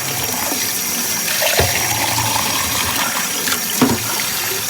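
Water running steadily from a kitchen tap into a sink, with two knocks about a second and a half and nearly four seconds in, as something is rinsed under it.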